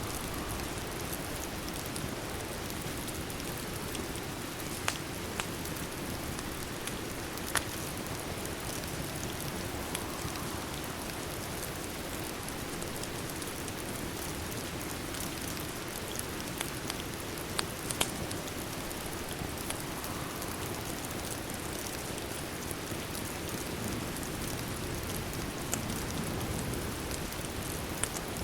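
Steady rain falling, with a few sharp crackles of a wood fire now and then.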